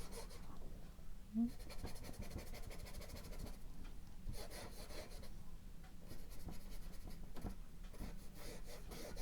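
Faint scratching and rubbing of a paintbrush worked across canvas in short repeated strokes, sketching in thin oil paint.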